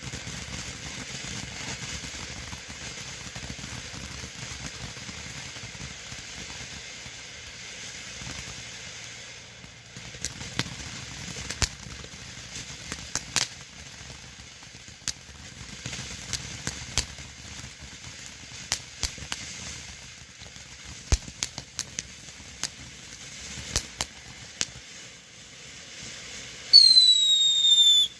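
Phantom Fireworks Komodo 3000 fountain spraying with a steady hiss. From about ten seconds in, scattered sharp crackling pops come through it. Near the end a loud whistle falls in pitch for a second or so.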